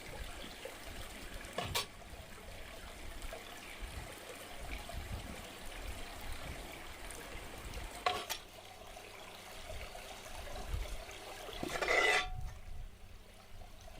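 Running water trickling steadily, with a couple of sharp clicks. A louder noisy burst comes near the end, and then the sound cuts off abruptly.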